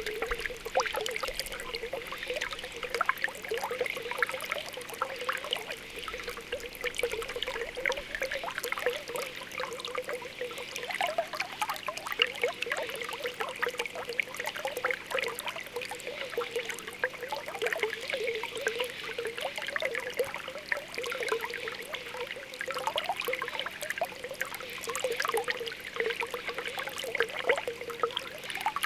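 Spring water welling up from the ground, bubbling and popping continuously with a burbling trickle.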